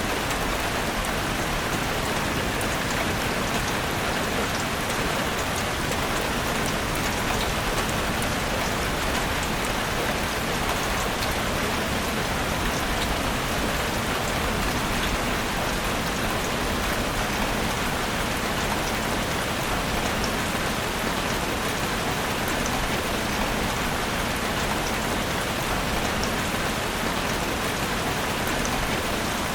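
Steady rain falling in a forest, an even hiss with many fine drop patters, unchanging throughout.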